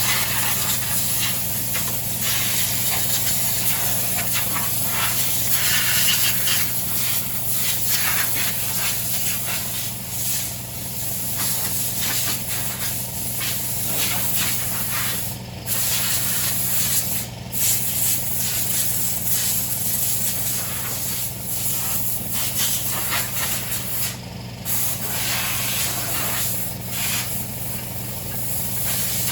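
A water jet spraying with a steady hiss over a constant low motor hum, the spray breaking off briefly a few times. It sounds like a pressure washer cleaning the mower's underside.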